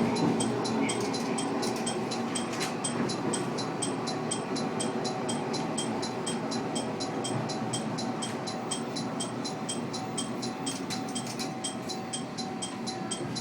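Kashima Rinkai Railway diesel train running, a steady rumble that slowly fades, with a fast, even ticking over it.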